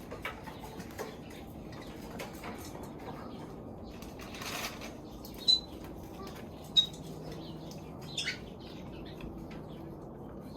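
Pet parrots moving about and calling: a brief flutter of wings a little before midway, two short sharp chirps, then a falling squawk near the end. Soft scattered clicks and scratches run underneath.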